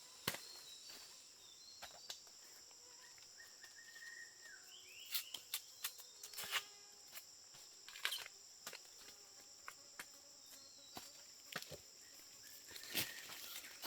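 Insects droning steadily in a high-pitched band, with scattered sharp clicks and rustles and a couple of brief chirps.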